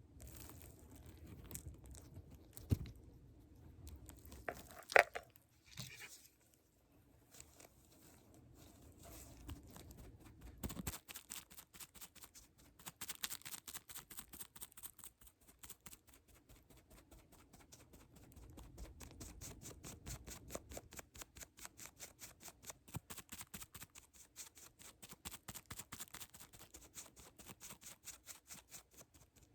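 Close-up handling sounds: soft rustling and scattered clicks, with one sharp click about five seconds in as the loudest sound. From about eleven seconds in, a long run of quick, even clicks or taps follows, roughly five a second.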